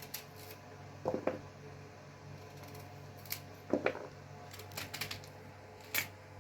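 Scattered light clicks and small knocks of kitchen utensils being handled, irregularly spaced, over a steady low hum.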